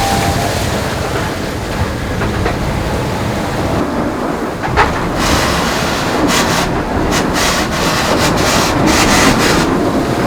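Foiling IMOCA racing yacht sailing at high speed: a loud steady rumble and rush of hull vibration, water and wind, with a sharp knock about halfway through and a run of brief clicks and knocks after it.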